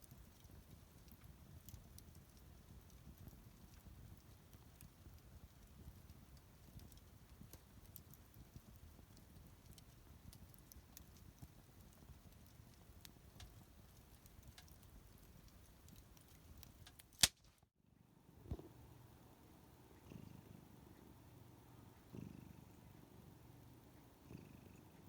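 Faint wood fire crackling with small scattered pops, then a sharp click and a brief cut about 17 seconds in. After the cut a cat purrs softly, swelling with each breath about every two seconds.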